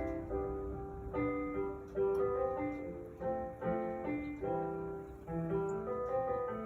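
Piano music: notes and chords played at an even, moderate pace.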